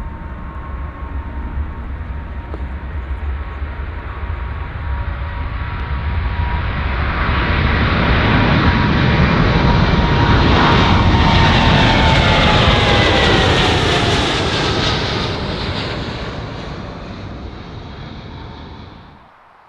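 Jet airliner passing close by, its engine roar building to a peak and then fading as the engine whine slides down in pitch. The sound cuts off abruptly near the end.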